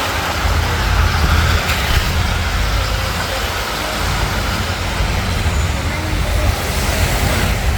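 Steady low rumble of car and road traffic heard from inside a car, with an even hiss and no distinct events.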